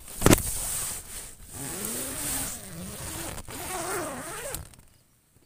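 Tent fabric rustling and swishing as the tent door is pushed open, with a sharp loud swish right at the start. A wavering pitched sound rises and falls in the middle, and all goes quiet near the end.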